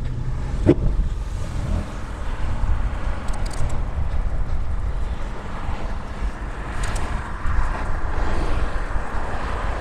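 Wind rumbling on the microphone of a moving bicycle, with motor traffic passing close by; a single sharp knock about a second in.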